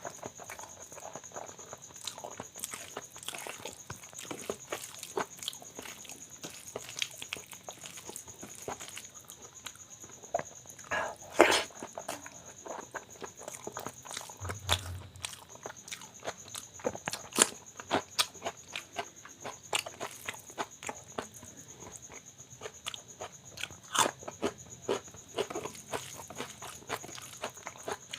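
Close-miked eating sounds: wet chewing and lip-smacking of soft ghee rice with mashed potato and lentil bharta, a steady stream of short clicks and smacks with a sharper one about eleven seconds in.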